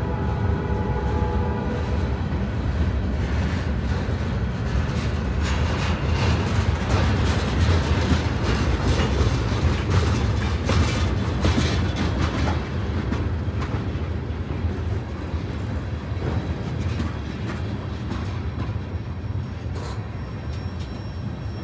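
A freight train rolling past: a steady low rumble with wheels clicking over rail joints. It eases off gradually over the second half.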